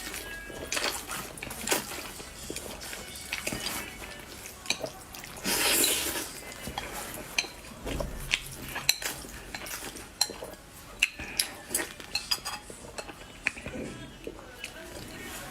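Close-miked eating sounds: utensils clicking and clinking against dishes, with short mouth and chewing noises and a longer noisy burst about five and a half seconds in.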